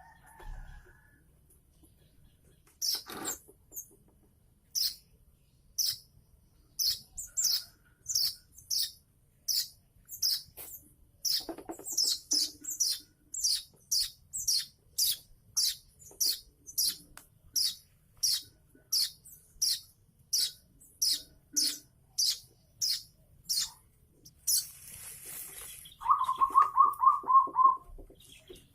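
Young weaver bird chirping, a long series of short high chirps at about one to two a second, typical of a chick begging for food. Near the end comes a louder, rapid run of lower-pitched notes.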